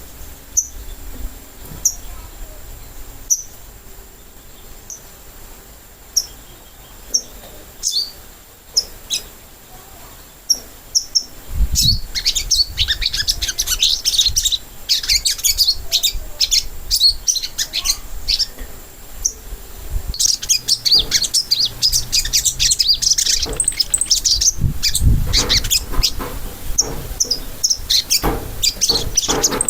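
Little spiderhunter (sogok ontong) calls played as a lure. Sharp high chirps come about once a second at first. About a third of the way in they break into dense, rapid chattering that swells again later, with a few low thumps among them.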